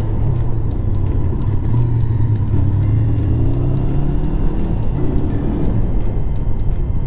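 Honda CBR400R's parallel-twin engine running steadily while riding, under background music with a light regular beat.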